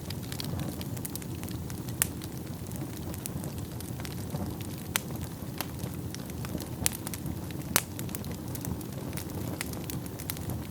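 Wood fire burning in a fireplace: a steady low rumble of flames with scattered sharp crackles and pops, a few louder ones standing out.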